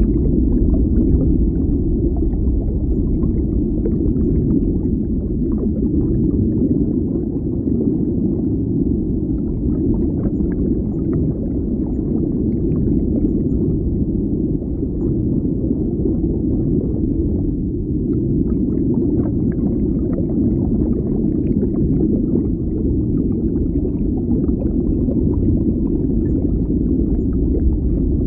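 Underwater ambience: a steady, low, muffled rumble and wash of water, with faint scattered crackles and pops over it.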